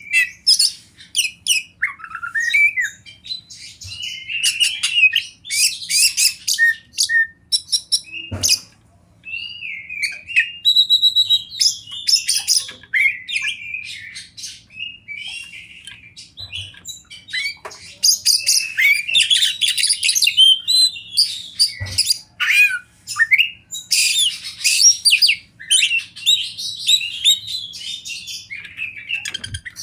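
Oriental magpie-robin (kacer) singing a long, varied song of rapid chirps, whistles and harsh squawky notes with brief pauses. There is a sharp click about eight seconds in and another about twenty-two seconds in.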